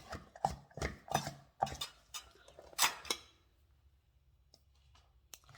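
Dishes and utensils clinking and knocking as they are handled, a handful of sharp knocks over about three seconds, then it stops.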